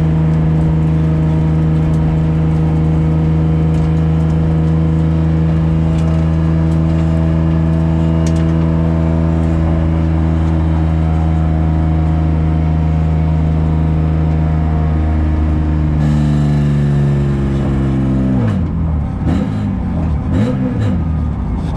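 Race car engine heard from inside the cabin, held at steady high revs along a straight. Near the end the revs fall as it brakes, then drop and jump back up several times through downshifts.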